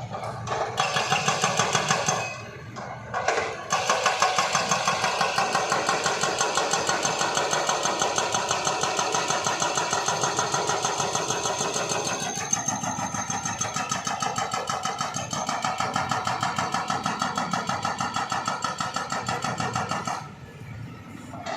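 Small engine running with a regular pulsing beat, about three or four pulses a second. It falters about two seconds in and picks up again a second later, its pitch steps down a little midway, and it drops away briefly near the end before running again.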